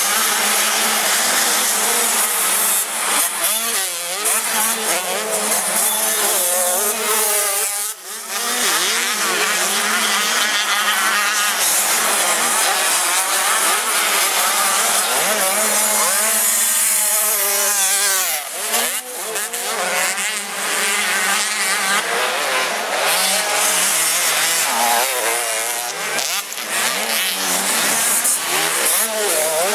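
Several 85 cc two-stroke motocross bikes racing, their engines revving up and falling back over and over as they accelerate and shift through the gears, with a steady hiss underneath.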